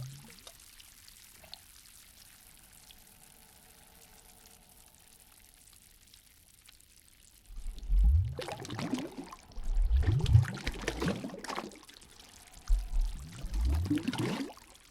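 Water pouring and splashing in three surges, each a second or two long, about halfway in, after several seconds of near quiet.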